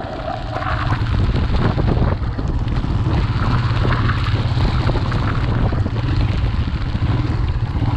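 Steady wind noise buffeting the microphone on a moving motorcycle, with a strong low rumble.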